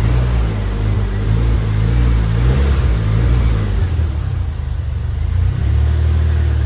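Toyota KE70 Corolla's freshly rebuilt engine running, its revs rising and falling a little, soon after being brought back to life following the rebuild.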